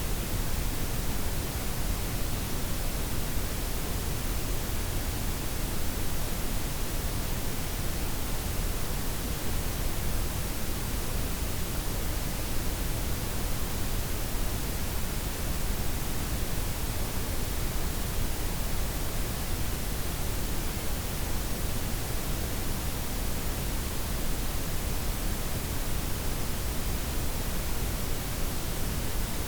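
Steady synthetic noise: a blend of white, pink and brown noise with the highs softened, an even hiss with a deep rumble underneath and no changes or events.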